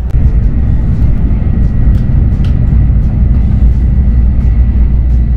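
Shinkansen Hikari bullet train running at speed: a steady heavy low rumble with a thin steady whine above it.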